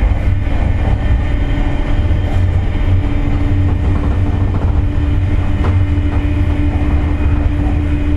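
Running noise inside a JR West 201 series electric train's motor car: a steady low rumble with a held mid-pitched whine coming in about half a second in. This whine is typical of the jet-like noise this car makes from electrolytic corrosion of its bearings.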